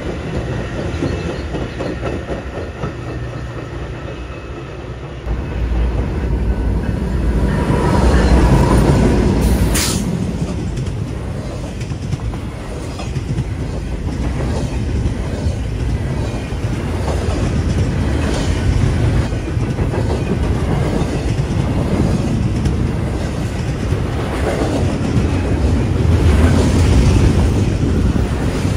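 Steel wheels rumbling and clattering over the rail joints as a freight train's double-stack container cars pass close by, louder from about five seconds in, with one brief sharp clank about ten seconds in. Before that, a commuter train's bilevel coaches roll past more quietly.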